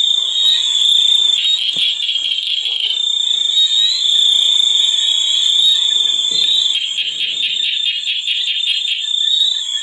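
Chorus of calling frogs: a steady high-pitched ringing with rapid pulsed trills that come and go over it.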